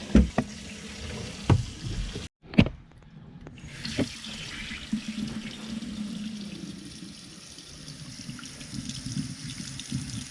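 Kitchen faucet running water into the sink, with several sharp knocks in the first four seconds.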